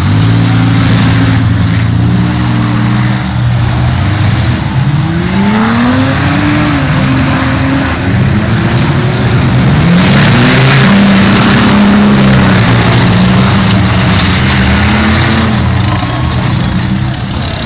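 Demolition derby cars' engines revving up and down, more than one at once, over a steady engine hum. A burst of rushing noise comes about ten seconds in.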